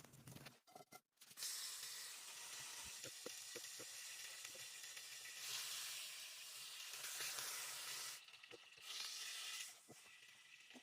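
A steady hiss with a few faint ticks. It starts about a second and a half in, cuts off sharply about eight seconds in, and comes back for about a second shortly after.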